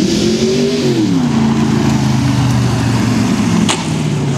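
Ultima GTR's 6.3-litre Chevrolet V8 running loudly. Its revs rise a little, fall away about a second in, and then hold at a steady lower note. A short sharp click comes near the end.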